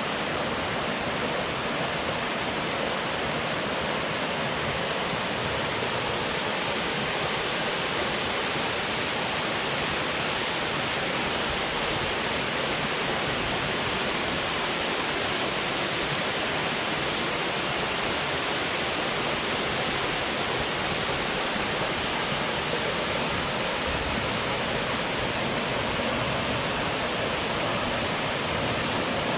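Steady, unbroken rush of water pouring from a dam and flowing down the river below it.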